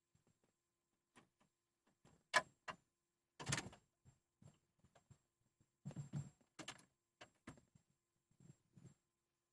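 A 1996 Dodge Intrepid clicking instead of cranking when the key is tried: a dozen or so irregular clicks and short knocks, the sharpest about two and a half seconds in, and no engine cranking. This is the car's no-start clicking, even though the battery is only a year old.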